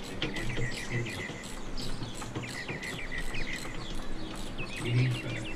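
Small songbirds chirping in quick runs of short, pitched notes, the densest run near the end.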